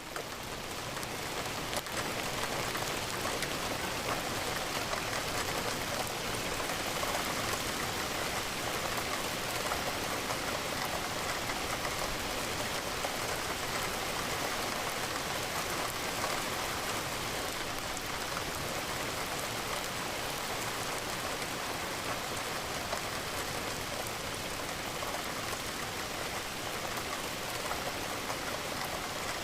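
Steady rain falling and pattering on a window pane.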